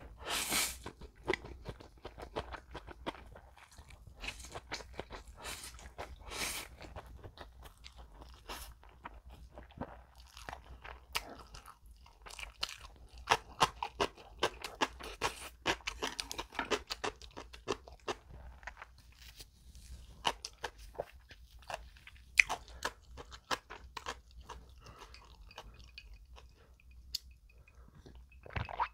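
A person eating spicy stir-fried instant noodles close to the microphone: a loud slurp of noodles in the first second, then chewing with many short wet mouth clicks.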